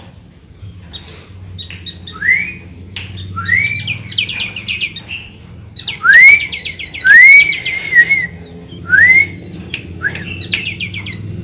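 Sooty-headed bulbul (kutilang) singing loudly. Its song is a series of rising, arching whistled notes, broken twice by fast rattling trills of high clicks. A steady low hum runs underneath.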